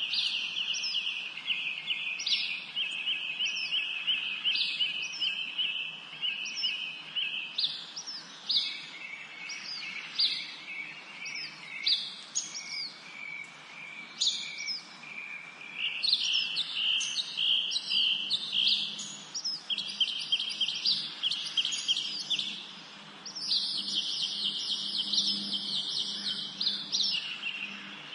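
Several songbirds singing together in a continuous spring chorus, with long rapid trills and short repeated high chirps overlapping throughout.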